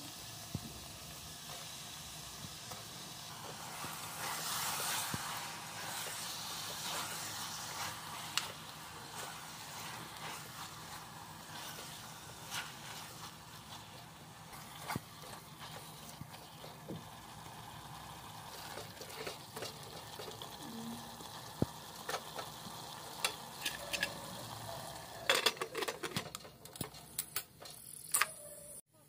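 Onions and meat sizzling in an open aluminium pressure cooker while a spatula stirs and scrapes against the pot, with scattered clicks and knocks that get sharper and more frequent near the end.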